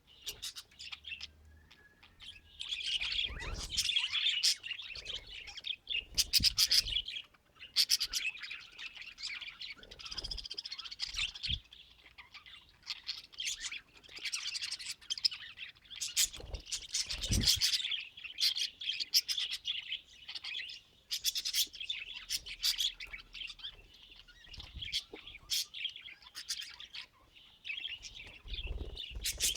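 Budgerigars chirping and warbling in a continuous chatter, with bursts coming and going throughout.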